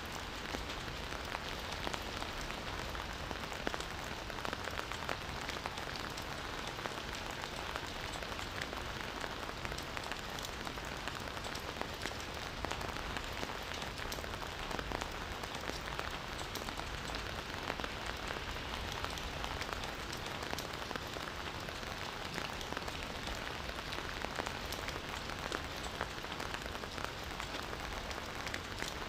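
Steady rain falling, with many separate drop hits ticking through the even hiss.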